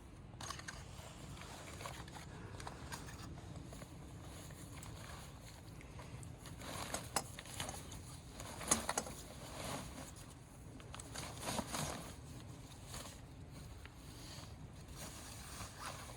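Rustling and scraping of a packraft and its packaging being handled, with scattered sharp clicks, the loudest about seven to nine seconds in.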